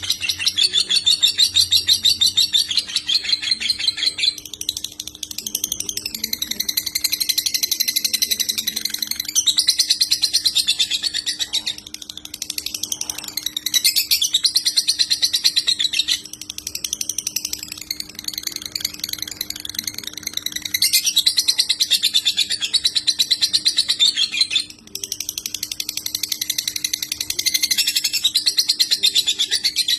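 Lovebird singing in long, fast chattering phrases of several seconds each, broken by brief pauses: the unbroken 'konslet' style of lovebird song. A faint steady hum runs underneath.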